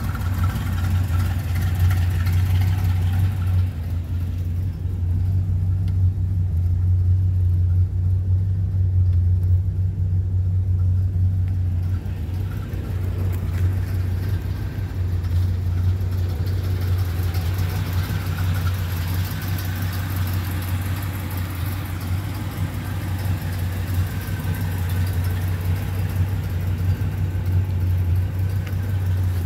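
A vehicle engine idling steadily with a strong low hum, sounding more muffled for several seconds in the middle.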